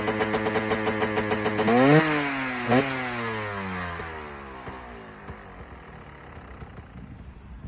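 2013 KTM EXC 250 two-stroke enduro engine through an Akrapovic exhaust, revving in quick sharp blips, then its pitch falling steadily as the sound fades away.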